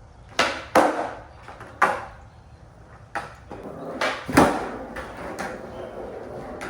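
A skateboard being handled, its deck and trucks knocking and clacking: about six sharp knocks in the first four and a half seconds, then softer rattling.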